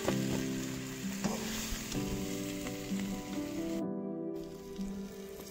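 Pieces of green jackfruit sizzling in hot oil in a kadai as they are scooped out, with a couple of sharp knocks of the spoon against the pan near the start. The sizzle briefly cuts out about four seconds in. Soft background music with a melody plays throughout.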